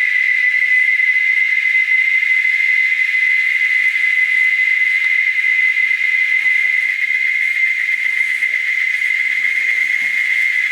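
A loud, steady, high insect chorus drone, one unbroken pitch with a hiss above it.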